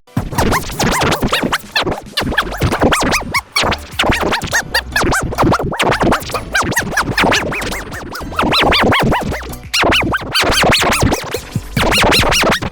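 Cartoon song and voice audio heavily processed with effects, chopped into rapid stuttering fragments with short warbling rises and falls in pitch, sounding like record scratching over music.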